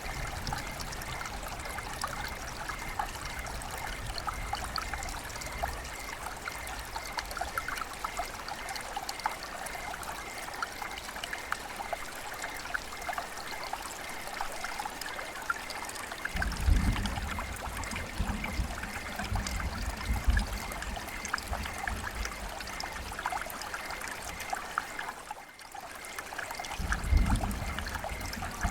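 River water flowing and trickling steadily, with many small splashes. A low rumble comes in about halfway through and again near the end.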